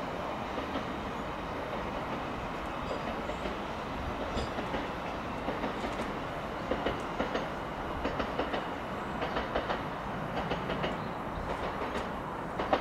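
South Western Railway Class 458 Juniper electric train pulling away and running off into the distance: a steady rumble, with irregular sharp clicks as its wheels pass over rail joints and pointwork from about four seconds in.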